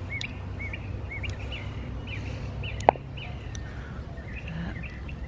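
A bird repeating a short, looping chirp over and over, roughly every half second, over a low steady hum. A single sharp click comes about three seconds in.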